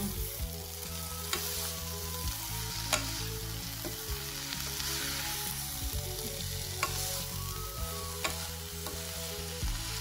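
Pumpkin pieces and grated coconut sizzling in hot oil in a non-stick pan while a spatula stirs them, with a few sharp clicks of the spatula against the pan.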